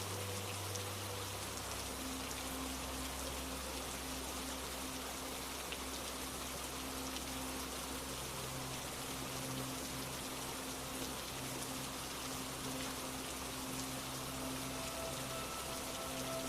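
Steady rain falling on a surface, an even hiss of many drops. Faint low sustained notes, like a soft music pad, sit beneath it and change pitch every few seconds.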